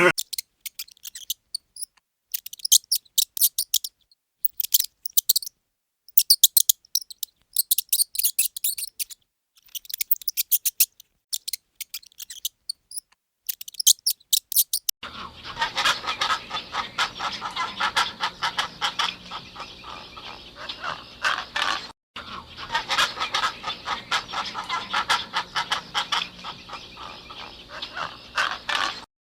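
Birds: bursts of rapid, very high-pitched chirping trills for about fifteen seconds, then a dense, continuous chorus of many calls from a flock.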